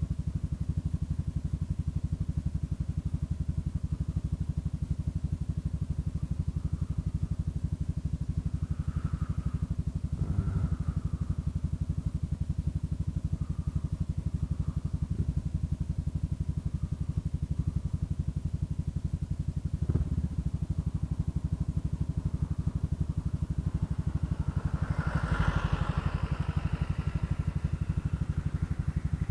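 Kymco Xciting 400i scooter's single-cylinder engine idling steadily while stopped, with a couple of light knocks. A brief louder rush of noise comes near the end.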